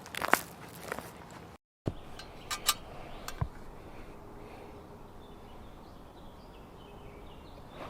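Footsteps crunching on a forest floor for about the first second, a few more cracks and clicks a little later, then a bird singing short, stepped high notes faintly.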